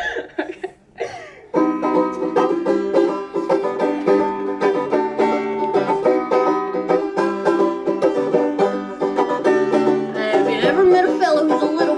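A live band kicks into a country dance tune about a second and a half in, after a moment of crowd talk and laughter.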